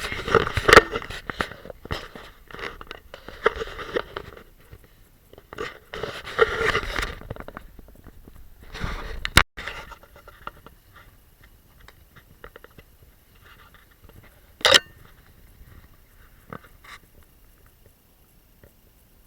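Footsteps crunching and scraping in fresh snow, in uneven bursts that die down about halfway through, with one sharp snap later on.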